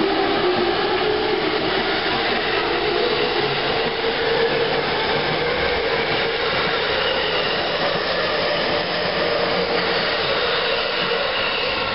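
Yamanote Line electric commuter train running close by: steady wheel-on-rail noise, with a motor whine slowly rising in pitch as the train gathers speed.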